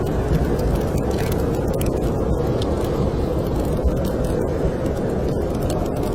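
Steady low roar of snowstorm wind, with small scattered crackles of a wood fire in a fireplace.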